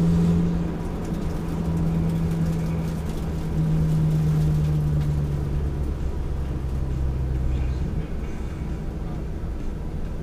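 Car engine droning steadily at cruising speed, heard from inside the cabin over low road rumble; its note drops a little about six seconds in.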